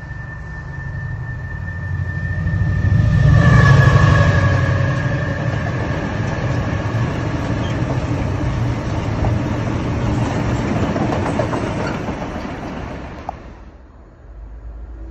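A train passing close by. A rumble builds to its loudest about four seconds in, holds steady for several seconds, then dies away near the end. A high whine drops in pitch as the train comes by.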